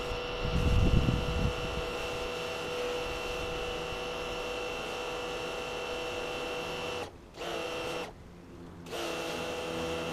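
A power scrubber's small electric motor runs with a steady whine. A louder low rumble comes about a second in, and the whine cuts out briefly twice near the end.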